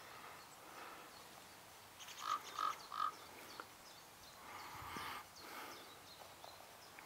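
A bird gives three short, harsh calls in quick succession about two seconds in, and another rougher call follows around five seconds, faint over quiet outdoor background.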